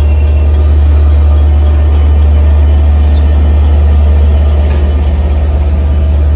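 LIRR diesel locomotive engine running steadily with a deep, even drone, two faint clicks in the middle.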